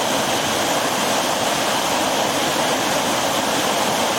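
River water rushing steadily below a waterfall, an even, unbroken rush.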